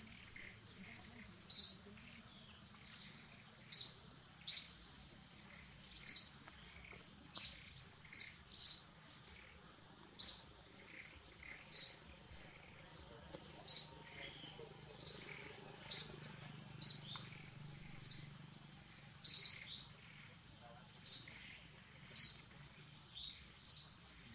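A bird chirping: short, high, falling notes repeated about once a second at an uneven pace, over a steady high-pitched whine.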